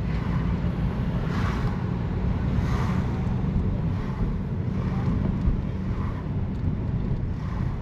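Wind buffeting the microphone: a steady low rumble, with faint softer swells about once a second.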